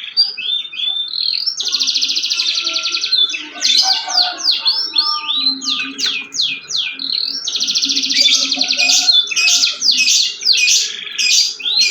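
Domestic canary singing continuously in a rapid run of chirps and down-slurred notes, broken by long, fast rolling trills about two seconds in and again about seven and a half seconds in.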